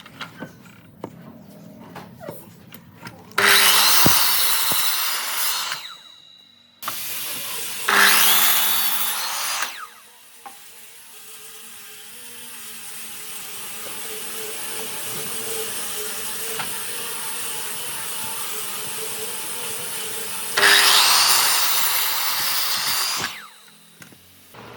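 A power tool working wood in three loud bursts of a few seconds each, with a motor running steadily and slowly getting louder between the second and third.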